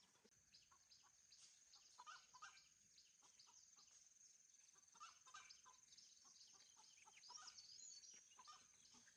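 Faint chickens clucking, with short chirping calls scattered throughout and a steady high-pitched whine behind them.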